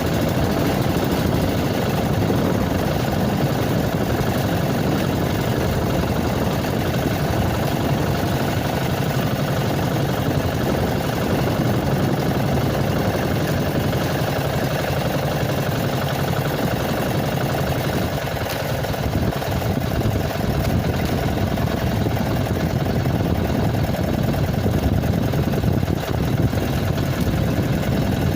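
A boat engine running steadily at a constant speed, with an even hum throughout.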